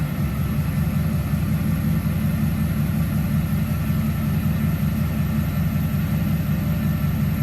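1950 Ford rat rod's carbureted engine with open headers idling steadily on a cold start, with no choke. The idle is set way down, so it just thumps along.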